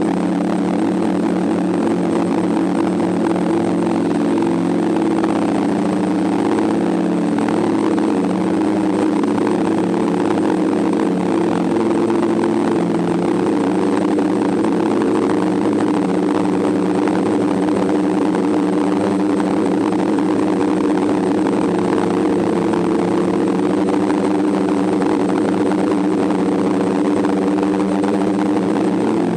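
DJI F550 hexacopter's six electric motors and propellers droning steadily in flight, a dense hum of several close pitches at an even level.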